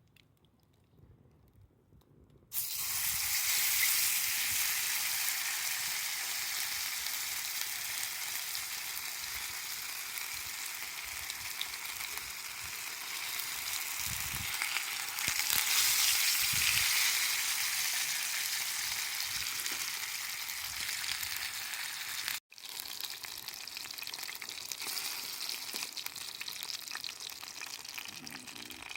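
Food sizzling as it fries over a campfire: a steady, loud sizzle that starts suddenly about two and a half seconds in and cuts out for an instant near the end.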